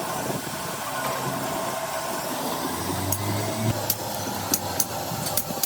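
Metal-fabrication workshop noise: a steady low hum under a hiss, with scattered sharp metallic taps from about halfway through.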